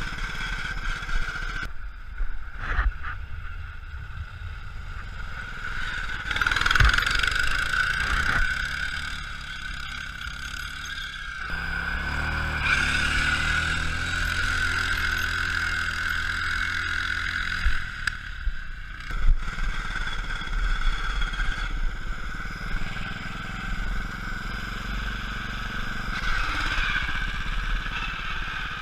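Vehicle engine running, its pitch rising and falling as it revs, with a few sharp knocks.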